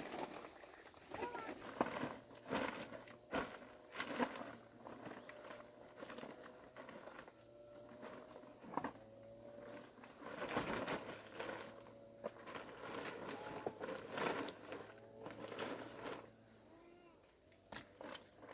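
Insects chirring with a steady high-pitched drone, with scattered knocks and rustles of hands-on work.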